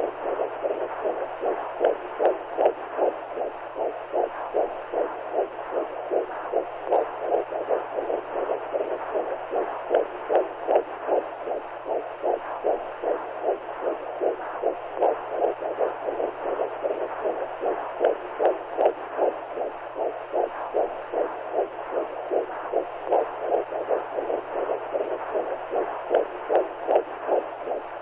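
Womb sound for newborns: a steady, regular whooshing pulse like a heartbeat heard through the uterus, over a faint low hum.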